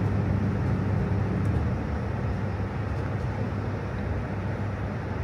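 Steady low rumble of a train running at speed, heard from inside the passenger carriage.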